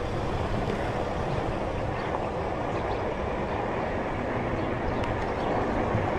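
Steady rushing rumble of riding a Onewheel: wind on the microphone and the rolling wheel, with no break in it.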